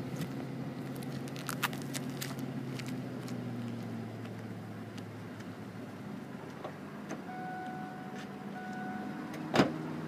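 1994 Ford Mustang GT's 5.0-litre V8 idling steadily through its stock exhaust, with a few light clicks and one sharp click near the end.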